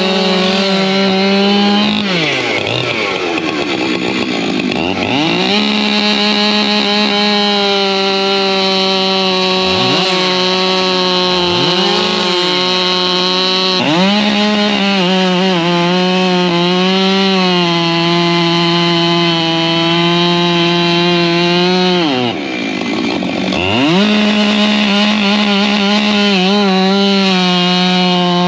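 Husqvarna two-stroke chainsaw held at high revs, its pitch dropping steeply about 2 s in and again about 22 s in before revving back up, with shorter dips in between.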